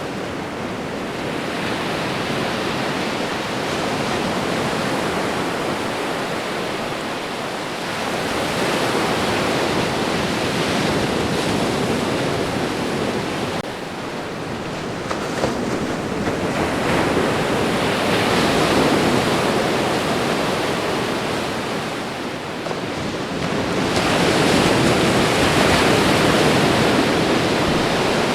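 Ocean surf washing onto a shore: a continuous rush of water that swells and eases in slow surges, louder about 8, 18 and 24 seconds in.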